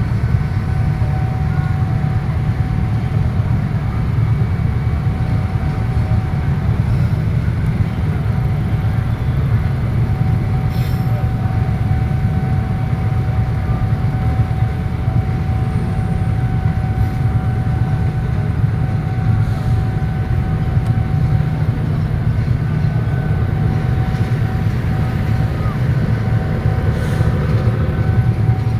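Train at a station platform: a steady, loud low rumble that holds unchanged for the whole stretch, with a faint steady whine coming and going above it.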